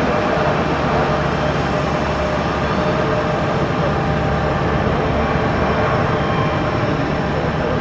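Airliner jet engines running: a loud, steady rushing noise with a faint high whine.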